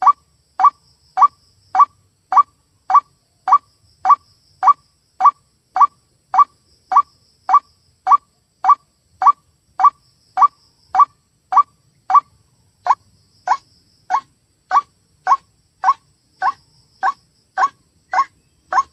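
White-breasted waterhen (ruak-ruak) call on a bird-lure recording: a short rising note repeated steadily, a little under two a second.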